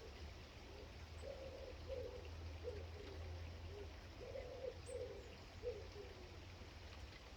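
A pigeon cooing in two phrases of several low notes, one after the other, over a steady low rumble, with a faint high chirp from a small bird about five seconds in.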